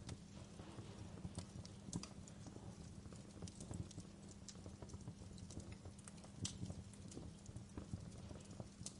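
Fireplace crackling: irregular pops and snaps, a few louder ones about two seconds in and again past the middle, over a steady low rumble.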